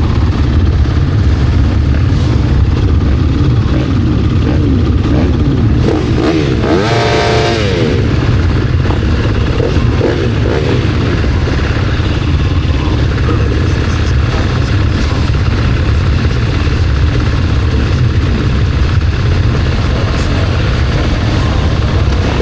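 Motocross bike engines running loud and steady, with a brief swooping rev about seven seconds in; the rider's own bike is a four-stroke KTM SX-F.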